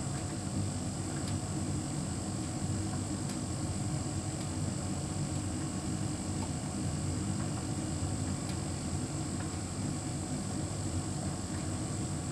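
Hotpoint heat pump tumble dryer running: a steady hum from the compressor, fan and turning drum, with a faint high steady whine and a few light ticks.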